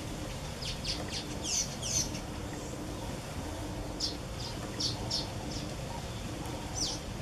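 A bird chirping in quick runs of short, falling notes, over a steady low background noise.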